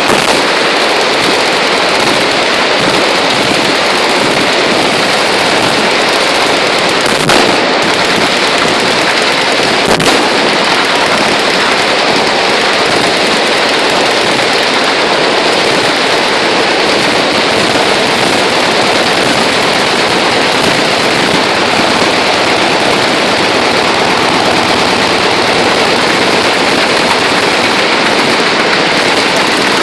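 Many machine guns firing at once, a continuous loud clatter of overlapping automatic bursts with no breaks. Two louder single cracks stand out about seven and ten seconds in.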